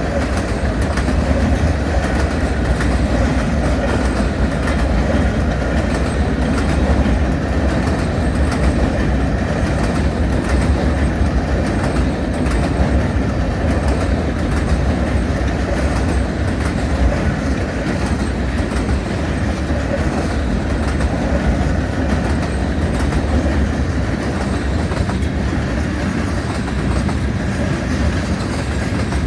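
Cars of a mixed freight train rolling past steadily, steel wheels rumbling on the rails.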